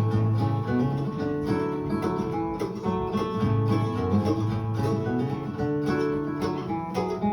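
Acoustic guitar playing an instrumental lead-in, steady strummed chords with picked notes ringing over them.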